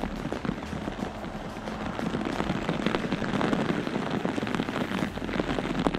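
Heavy tropical rain falling steadily, a dense hiss of many close drops pattering on wet ground and leaves, growing heavier about two seconds in.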